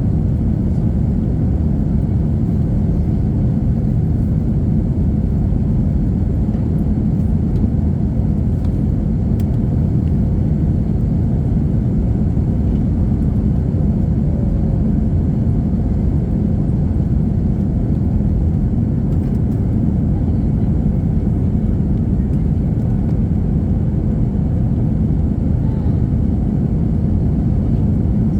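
Steady, even cabin rumble inside an Airbus A321-231 airliner: the noise of its IAE V2500 turbofan engines and the airflow around the fuselage, heard from a window seat near the rear.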